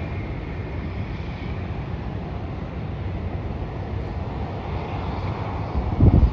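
Steady low rumble of a Virgin Australia Boeing 737 jet landing, with a brief loud low thump near the end.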